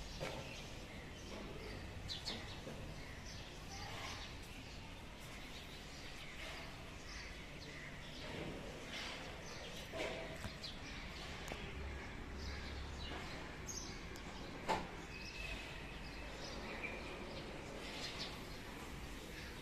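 Several birds chirping and calling in short, scattered notes over a steady outdoor background hiss, with one sharp knock about three-quarters of the way through.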